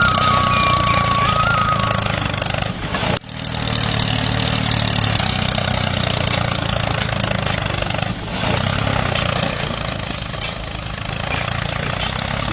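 The mini tractor's engine running steadily, with a steady high beeping tone over it for the first two seconds. The sound cuts out briefly about three seconds in, then the engine carries on.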